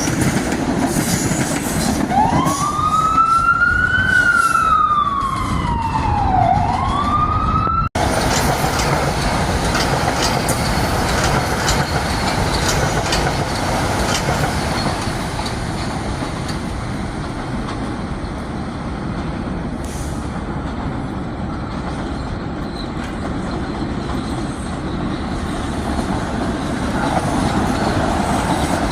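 An emergency vehicle siren wails over a steady train and street rumble, its pitch rising, falling and rising again. The sound breaks off abruptly about eight seconds in. The steady rumble of rail traffic carries on after the break.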